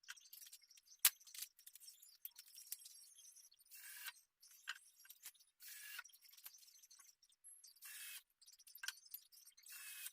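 Light workshop handling noises: scattered clicks and taps, one sharp click about a second in, and short scraping strokes roughly every two seconds.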